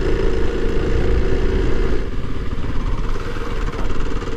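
Kawasaki KLX 300's single-cylinder four-stroke engine running steadily as the dual-sport motorcycle rides along a dirt trail. Its steady engine note eases off about two seconds in.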